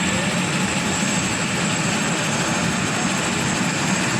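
Helicopter running: a steady engine and rotor noise with a thin, high whine held over it.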